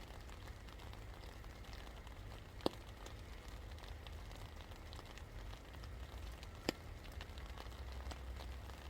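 Rain falling steadily, with many small drops pattering and two louder single drips, one under three seconds in and one near seven seconds. A low steady rumble runs underneath.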